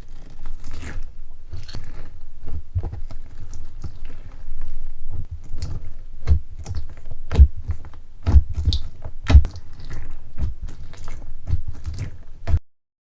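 Slime being squeezed and poked by hand close to the microphone: a dense, irregular run of sharp crackling pops over soft low thuds, cutting off suddenly near the end.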